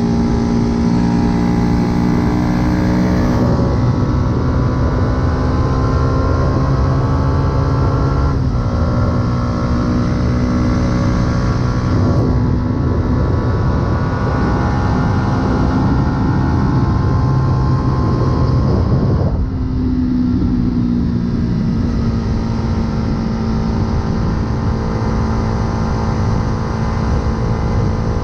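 2008 Yamaha YZF-R125's single-cylinder four-stroke engine running under way through an aftermarket full exhaust, heard from the rider's position. The engine note holds steady, breaking and changing pitch twice, about eight seconds in and again near twenty seconds, as gears are changed.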